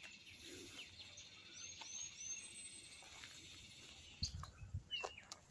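Faint chirping of small wild birds: three short, high chirps in quick succession about a second and a half in, and another near the end. A few low thuds come about four seconds in.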